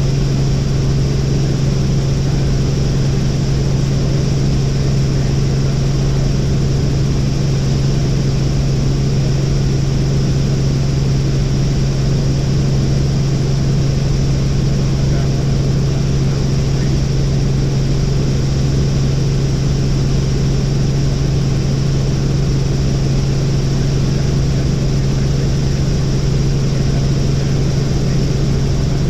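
Helicopter in flight: a steady drone of engine and rotors with a constant low hum, unchanging throughout.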